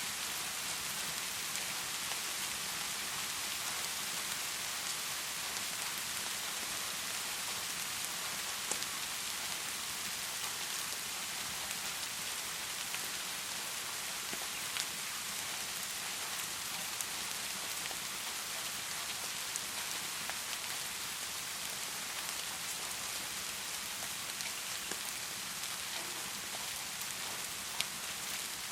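Steady heavy rain, an even hiss without let-up, with a few isolated sharp ticks.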